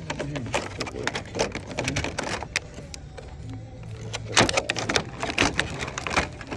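Blister-packed die-cast toy cars clicking and clattering as they are handled and pushed aside by hand, in a run of quick sharp knocks, loudest a little past the middle. A steady low hum lies underneath.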